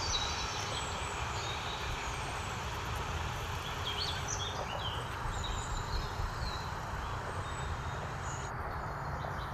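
Wild birds chirping in short, scattered calls over a steady low rumble of outdoor background noise.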